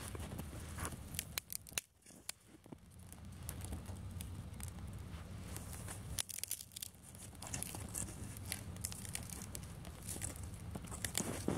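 Dry twigs and kindling being handled to light a campfire: irregular rustling, crinkling and sharp snapping, with a couple of brief pauses.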